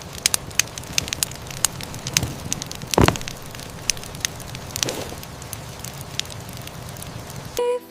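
Fire crackling, with a steady hiss and many sharp irregular pops; one louder pop about three seconds in.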